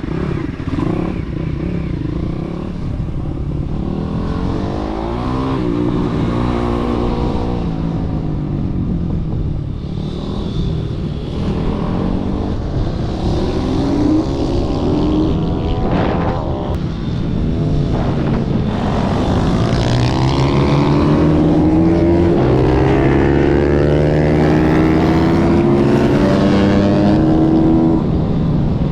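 Petrol pit bike engine racing around a track, revving up through the gears with repeated rising pitch and dropping back on the brakes. It gets somewhat louder about two-thirds of the way in.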